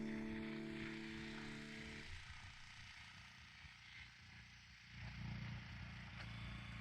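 Background music with long held notes stops about two seconds in, leaving faint outdoor ambience. A low steady hum comes in about five seconds in.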